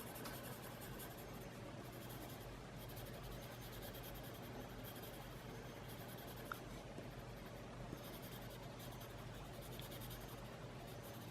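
Colored pencil shading on a small paper tile: faint, repeated back-and-forth scratching strokes.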